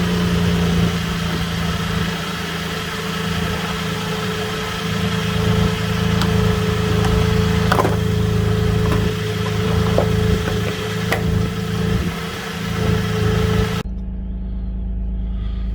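Holden VZ SV6 Commodore's 3.6-litre V6 idling steadily just after catching, having been started by bridging the starter relay because of a suspected ECU fault.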